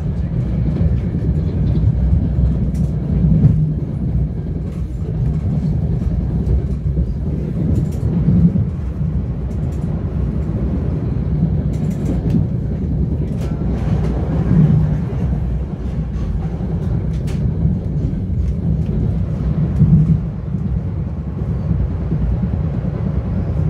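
Metro-North commuter train rumbling steadily, with scattered light clicks and rattles.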